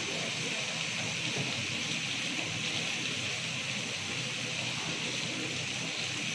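Onion, tomato and spice masala frying in hot oil in a wok: a steady sizzle.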